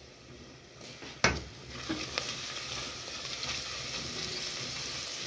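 Onions frying in oil in a pot, with a sharp knock against the pot about a second in. After the knock the sizzling grows louder and stays steady as the garlic goes into the hot oil and is stirred.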